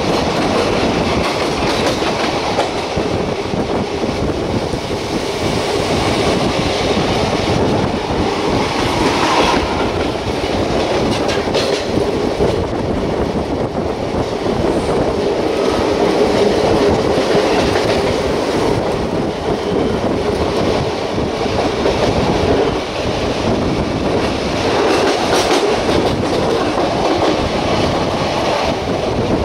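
Passenger express train running at speed, heard from beside its coaches: a steady rumble with the wheels clattering over the rails.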